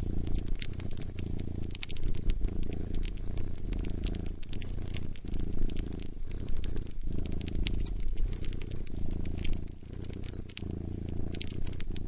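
Domestic cat purring close up, a low rumble that breaks briefly with each breath about once a second, mixed with a wood fire crackling in sharp pops and snaps.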